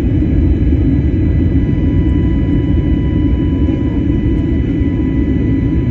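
Airplane takeoff: a steady, loud rumble of engines and airflow, with faint steady whines above it.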